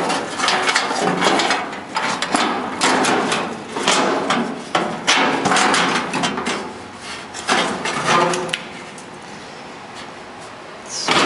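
Metal truck parts being handled and taken off by hand: a run of knocks, clanks and rattles for most of the stretch, growing quieter near the end.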